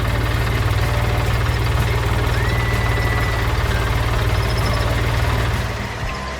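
Tractor engine idling with a steady, fast low knock, fading away near the end.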